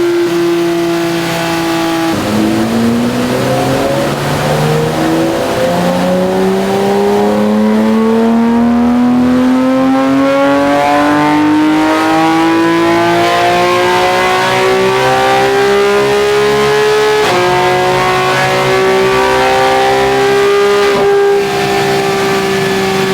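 Porsche 991 GT3 4.0-litre flat-six with a sport exhaust under a long full-throttle pull. The engine note climbs slowly and steadily for about fifteen seconds, dips briefly, then holds high near the top of the rev range.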